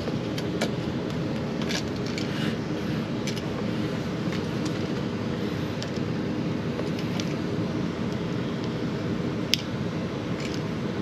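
A steady background hum with a few light clicks and small metallic rattles, and one sharper click near the end.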